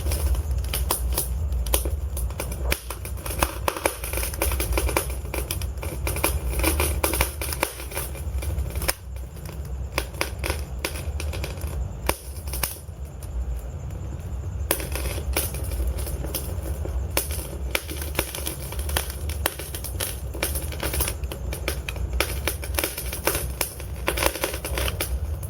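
Wood fire burning in a fireplace: logs crackling and popping over a steady low rumble of flames, with the crackles thinning out for a couple of seconds about halfway through.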